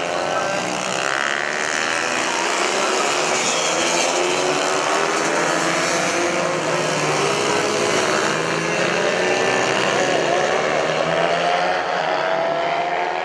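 Several mini bike engines racing together at high revs, their overlapping notes rising and falling as the bikes accelerate and slow.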